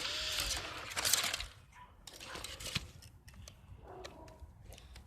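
A smashed laptop being handled: a second and a half of scraping and rustling debris, then faint scattered clicks and light rattles of loose broken parts.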